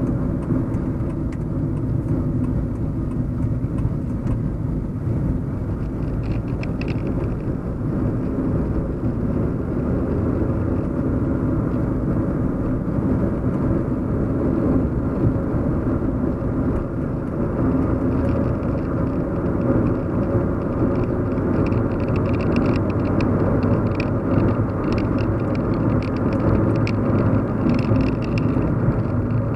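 Steady low road-and-engine hum heard inside a moving car's cabin, with faint light ticks now and then.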